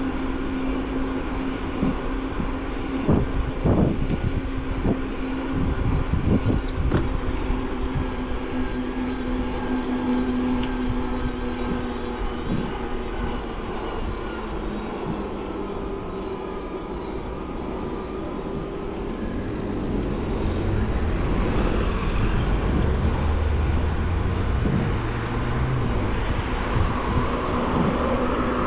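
Ride noise of a mountain bike picked up by a bike-mounted camera: a steady hum and rumble of tyres and wind, with several sharp knocks and rattles about three to seven seconds in, growing louder in the last third.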